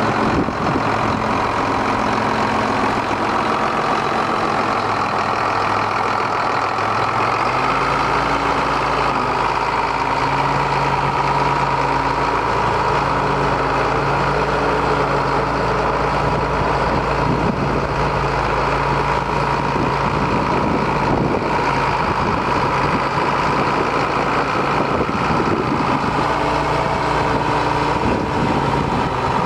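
John Deere 7810 tractor's diesel engine running steadily; a deeper low rumble comes in about seven seconds in and holds.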